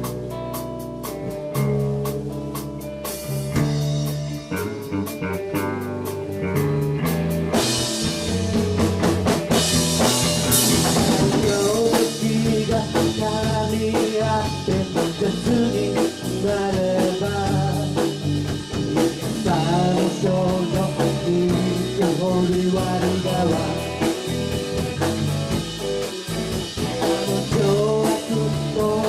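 Live band playing a slow, bluesy song on electric guitar, bass and drum kit. It starts sparse; cymbals come in about three seconds in and the full band with a sung vocal about eight seconds in.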